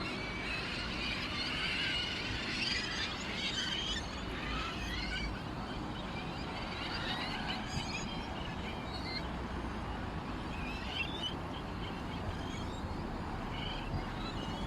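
Many small birds chirping and twittering at once, a dense run of short, quick chirps over a steady low background rumble.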